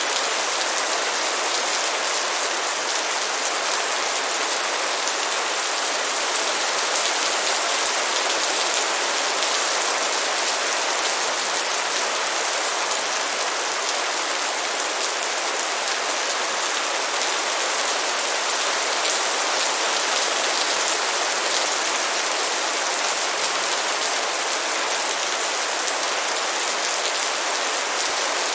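Rain falling steadily: an even patter of many small drops on a surface, with no change in level and no separate events.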